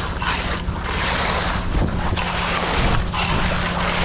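Wind buffeting the microphone in gusts, over a steady low engine hum.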